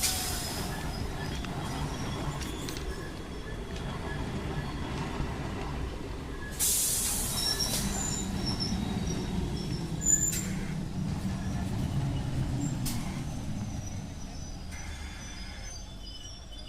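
Three-phase MEMU electric train running, a low rumble that fades away over the last few seconds, with two sudden bursts of hiss, one at the start and one about seven seconds in, and a sharp clank about ten seconds in.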